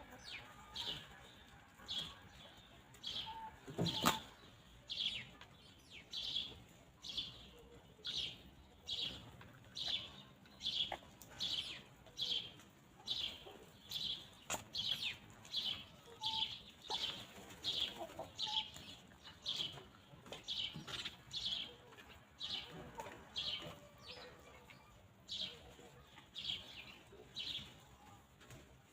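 A small wild songbird repeating a short, high, downward chirp about twice a second. One sharp knock sounds about four seconds in.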